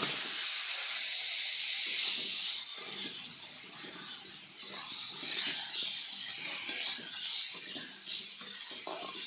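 Freshly washed potato slices sizzling in hot oil in a kadhai: a sudden loud hiss of steam as the wet slices hit the oil, easing after about two and a half seconds into a steady frying crackle while a metal spatula stirs them.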